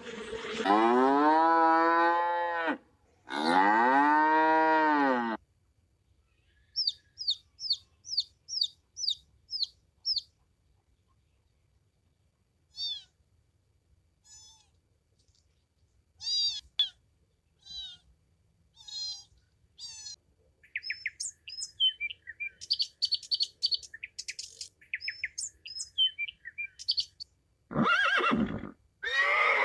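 A cow mooing twice, two long calls in the first five seconds. Then a long run of short, high chirping calls from a small bird or chick, some in quick series of about eight. Near the end a horse begins to whinny.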